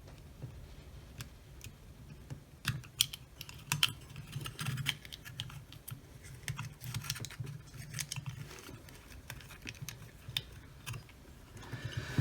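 Scattered small clicks and taps of hands working the camera's circuit board and pulling its small plastic wire connectors loose, coming in quick clusters about three seconds in and again in the second half.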